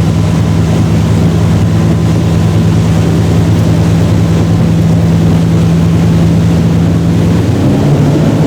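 Motorboat engine running steadily while the boat is under way, its note shifting near the end.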